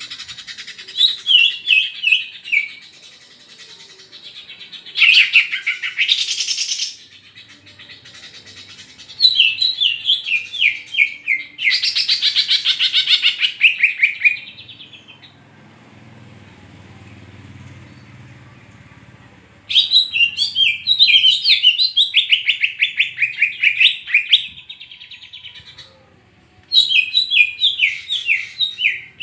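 Cucak ijo (green leafbird) singing loudly in bursts of several seconds each. The bursts are runs of quick falling whistled notes and fast chattering trills, with pauses of a few seconds between them.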